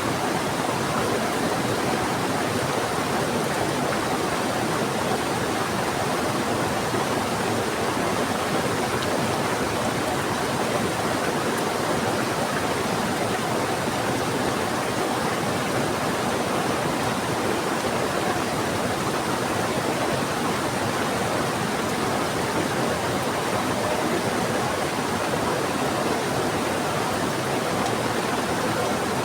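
Steady, even rush of a fast-flowing river, mixed with heavy rain falling.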